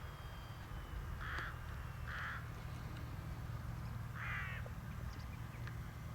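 A bird cawing three times: two short caws close together, then a longer one about two seconds later, over a steady low rumble.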